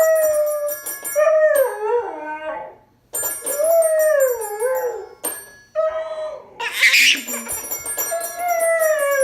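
A dog howling: about five long, wavering howls that slide down in pitch, over high ringing tones like music or chimes. There is a short, sharp noisy burst about seven seconds in.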